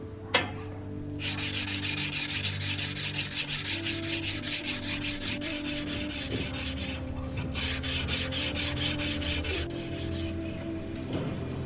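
Quick back-and-forth hand sanding strokes on a steel sword blade, about four strokes a second, with a short pause about seven seconds in. A single sharp knock comes shortly before the sanding starts.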